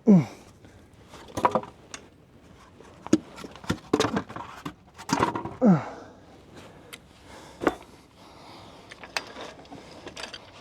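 A man grunting with effort twice, each grunt falling in pitch, the first right at the start and the second about five and a half seconds in. Between them come scattered knocks and clicks as he shifts his body and tools in a cramped crawl space.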